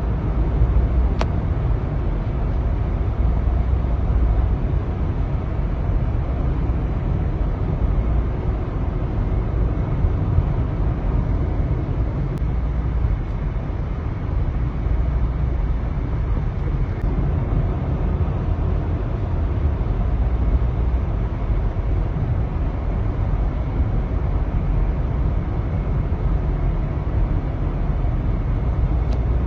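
Blizzard wind blowing across the microphone: a steady low rumble with a hiss above it.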